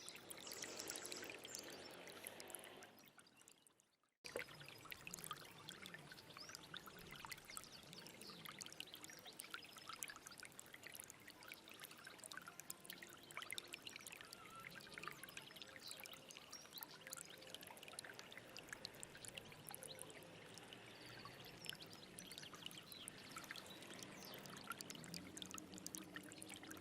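Small stream trickling and babbling, a steady watery rush full of fine splashes. It fades away about two to four seconds in, then cuts back in abruptly at a splice in the recording.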